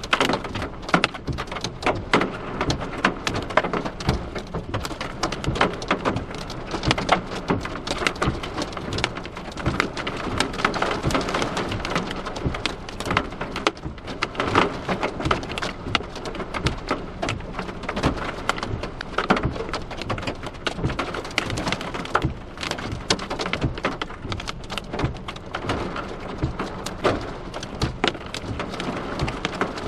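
Heavy storm rain pelting a hard surface, a dense, irregular patter of sharp hits over a steady hiss.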